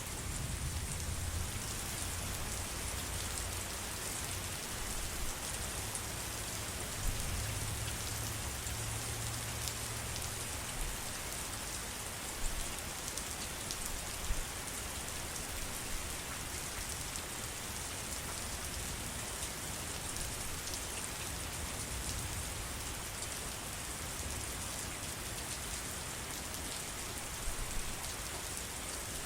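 Steady, dense rainfall with scattered louder drop hits. A low rumble sits beneath it for roughly the first ten seconds.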